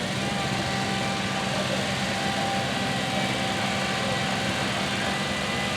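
Small engine running steadily at a constant speed, with a steady high tone over it.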